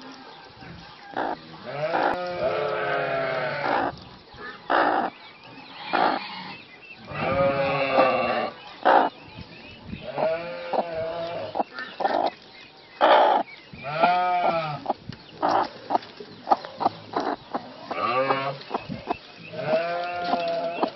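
A flock of livestock bleating: many overlapping calls, some drawn out and quavering, others short, one after another with brief gaps between.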